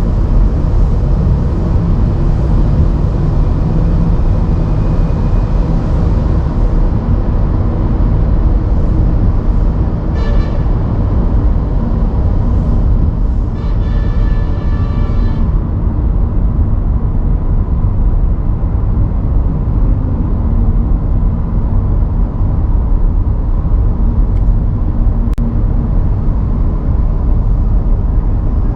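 Steady low rumble of car road and engine noise while driving on city streets. A short high-pitched tone sounds about ten seconds in, and a longer one from about fourteen to fifteen seconds.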